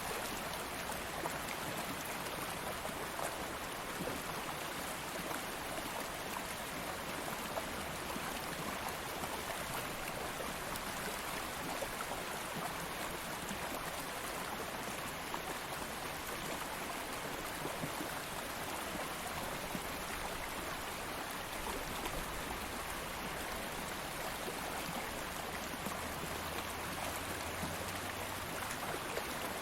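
Stream of water flowing over rocks, a steady rushing and burbling.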